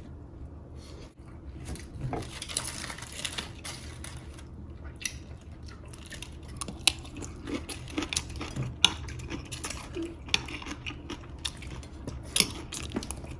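Spoons and other cutlery clinking and scraping against plates and bowls as people eat, in many small, irregular clinks.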